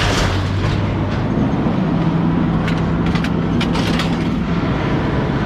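A vehicle engine running steadily, with a quick cluster of sharp knocks about three to four seconds in.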